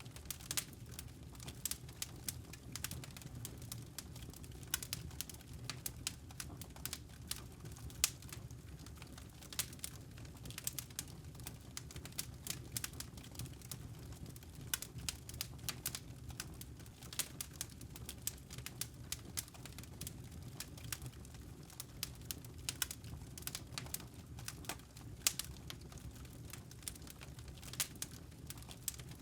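Campfire of burning wood logs crackling, with irregular sharp pops over a steady low rumble of the flames.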